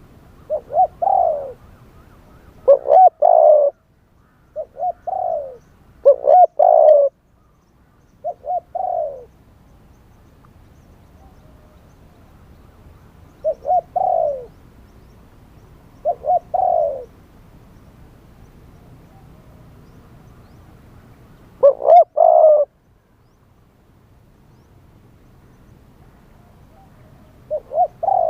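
Spotted dove cooing: short phrases of a few low coos, repeated about nine times with pauses of one to six seconds between them.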